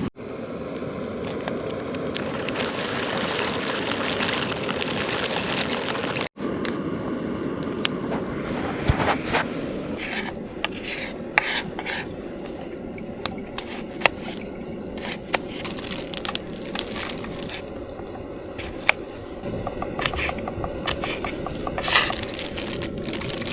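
A steady hiss for about ten seconds, then a run of irregular short knocks and scrapes: a knife chopping food on a board.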